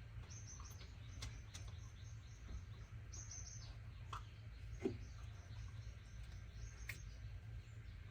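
Faint high bird chirps in short clusters, with a few light clicks and taps over a low steady hum.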